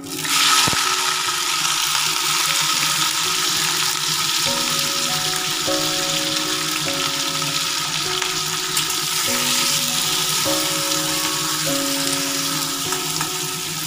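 Raw prawns dropped into hot oil in a kadai, sizzling loudly. The frying starts suddenly with a knock just under a second in, then sizzles steadily.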